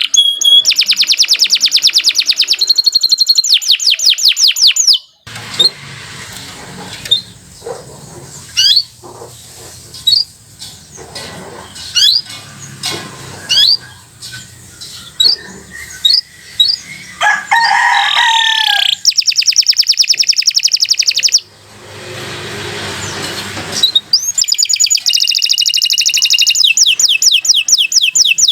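Domestic canary singing: fast rolling trills of rapidly repeated sweeping notes, broken in the middle by a stretch of scattered single chirps over a low steady hum, then more trills near the end.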